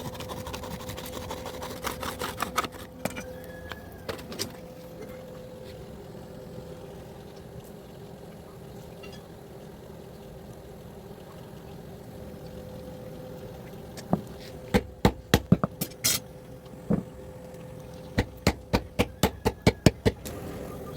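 Hammer blows on metal in blacksmith forging: a few scattered strikes about two seconds in, then two quick runs of strikes, about three a second, in the second half, over a steady hum.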